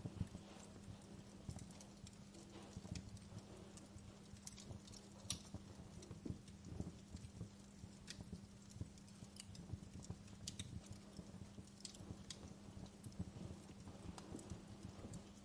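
Wood fire crackling in a fireplace: faint, irregular snaps and pops, several a second, over a steady low hum.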